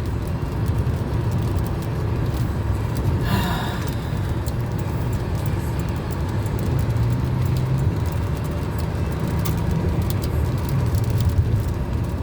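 Inside a moving car's cabin on the highway: a steady low rumble of road and engine noise, with rain ticking on the car.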